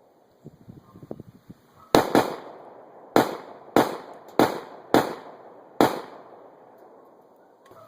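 Gunshots: seven shots in irregular succession, two close together about two seconds in and the rest spaced roughly half a second to a second apart, each with a short echo. A few faint clicks and knocks of gun handling come just before the first shot.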